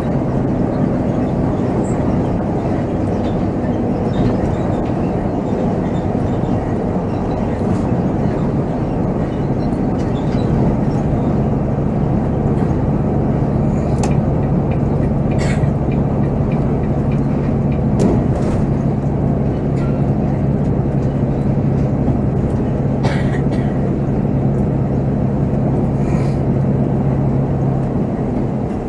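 Volvo B7R coach's diesel engine running under way, a steady drone heard from the driver's cab, with a few short clicks and rattles from the cabin now and then.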